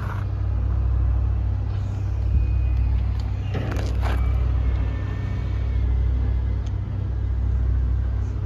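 Steady low engine hum of an idling road vehicle, with a brief noise around three and a half seconds in.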